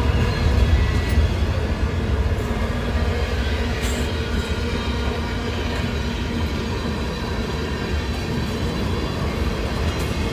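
Freight cars of a mixed train (covered hoppers, tank cars and boxcars) rolling steadily past on steel rails: a continuous low rumble with a few faint clicks.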